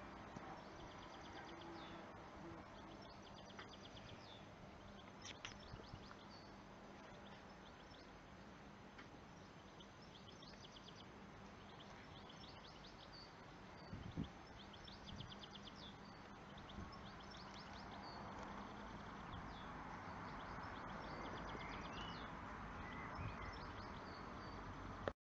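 Faint outdoor background noise with small birds chirping and trilling in quick runs of notes, and a soft knock about fourteen seconds in.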